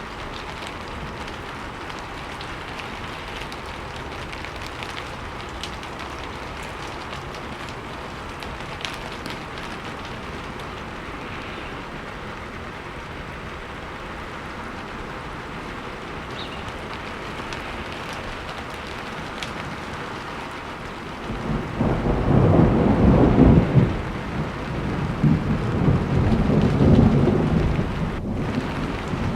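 Steady rain falling with scattered drips, then about two-thirds of the way through a loud rumble of thunder breaks in and rolls on in waves.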